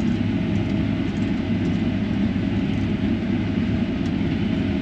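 Combine harvester running under load while cutting wheat, heard from inside the cab: a steady engine and machinery drone with several constant hum tones.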